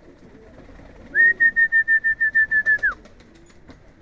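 Pigeons cooing, with a loud high trill: a rapid run of about a dozen pulses on one pitch, lasting just under two seconds and dropping sharply at the end.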